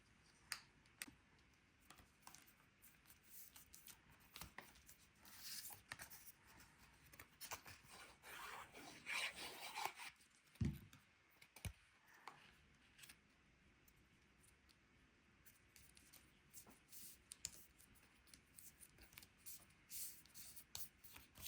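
Faint rustling and rubbing of cardstock panels being glued and pressed into place on a paper box card, with scattered light taps and clicks. Two dull low bumps come about ten and eleven seconds in.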